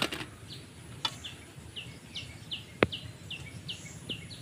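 A bird calling the same short, high, downward chirp over and over, about two or three times a second. A few sharp clicks come in between, the loudest near the middle.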